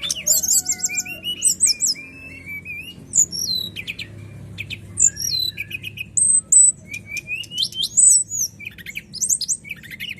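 A brown-chested jungle flycatcher (sikatan rimba dada coklat) sings a clear, varied song without pause: rapid trills, short chirps and sweeping whistles. A faint low hum runs underneath.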